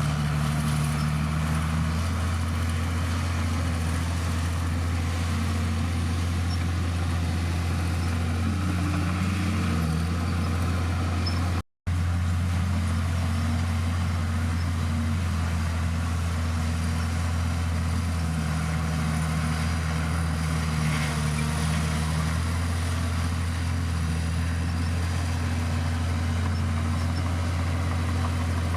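Heavy diesel engine of a crawler bulldozer running steadily, its pitch shifting up and down a little as the machine works. The sound drops out for an instant about twelve seconds in.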